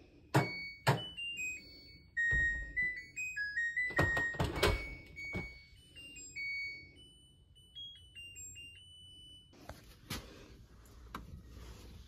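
An electronic jingle of short beeping tones stepping up and down in pitch, with a few sharp knocks at the start and again midway.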